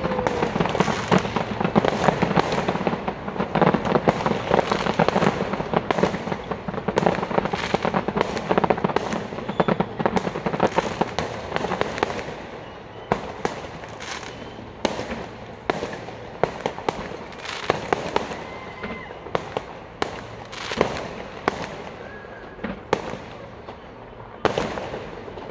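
Fireworks display going off: a dense run of rapid crackling and bangs, thinning about halfway through to separate bangs and pops spaced a second or so apart.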